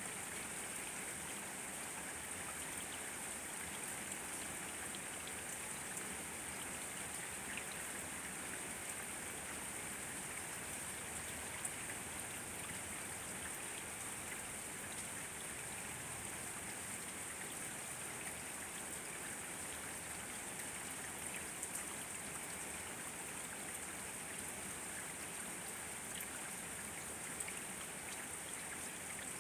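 Steady rain falling, an even hiss with scattered small drop patters.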